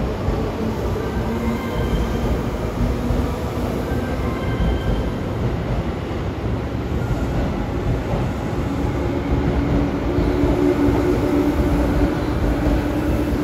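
Tobu 10000 series electric train pulling out of the platform, its cars rolling past with a continuous low rumble and faint brief high squeals every few seconds. A steady hum comes in about two-thirds of the way through, and the running sound grows a little louder as the train gathers speed.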